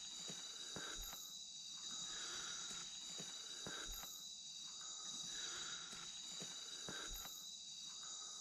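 Steady, high-pitched chorus of night insects such as crickets and katydids in rainforest, with a few faint knocks or rustles.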